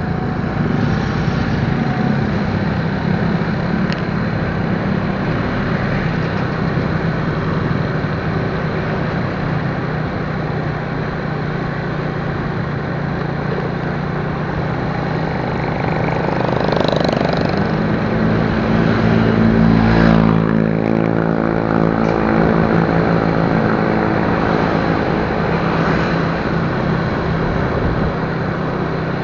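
Motorcycle engine running steadily while riding, under a thick rush of wind and road noise. The engine note grows louder and fuller about two-thirds of the way through.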